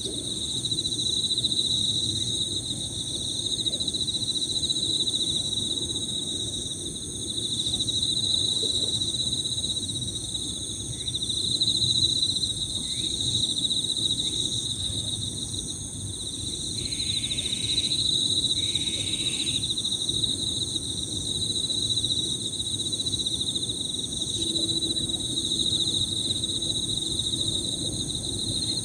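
Several Emma field crickets trilling steadily and overlapping in a high pitch, with a still higher insect trill above them. Two short lower buzzing calls come just past the middle, and a low steady rumble runs underneath.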